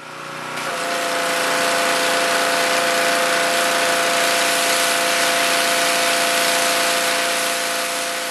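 Pressure washer running steadily, its motor hum carried under the loud hiss of the water jet. The sound fades in at the start and begins to fade away near the end.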